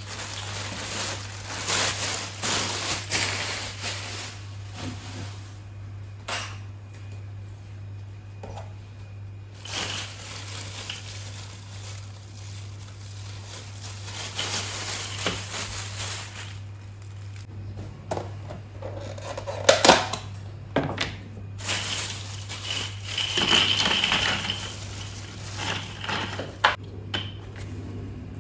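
Clattering, scraping and knocking of household items being handled, in irregular bursts with a few sharp knocks, over a steady low hum.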